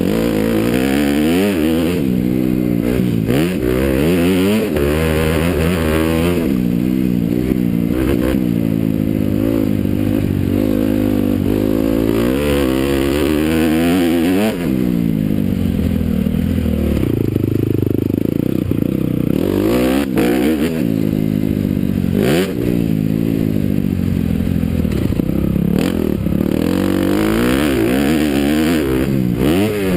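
Honda CRF250R's single-cylinder four-stroke engine revving hard and backing off again and again, its pitch climbing and dropping every second or two as the throttle is worked and gears are changed.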